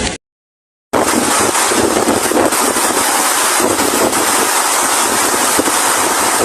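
Heavy rain pouring down, a loud steady hiss. It cuts out completely for under a second near the start, then comes back unchanged.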